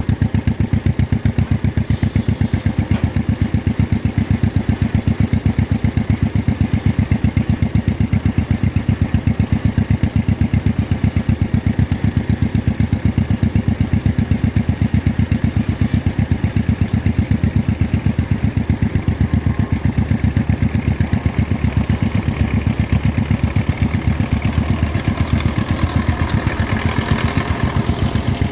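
1953 John Deere 40's two-cylinder engine running at a steady, even putt. A higher-pitched sound swells in over it near the end.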